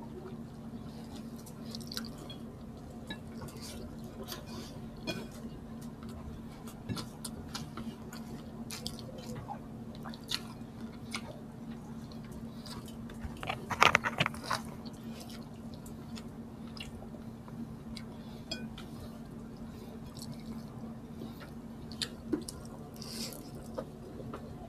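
Close-miked chewing of pork sisig and rice eaten by hand: many small wet clicks and smacks, with a louder cluster of chewing sounds a little past the middle. A steady low hum runs underneath.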